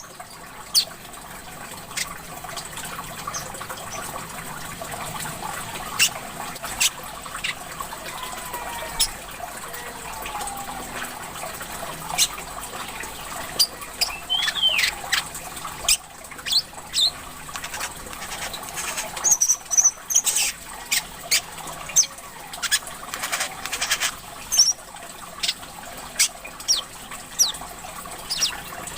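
A songbird giving many short, sharp chirps and a few gliding whistled notes, over steady trickling water.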